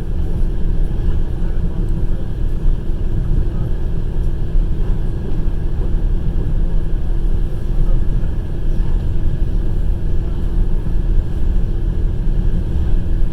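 Passenger train running along the line, heard from inside the carriage: a steady low rumble of the wheels on the rails.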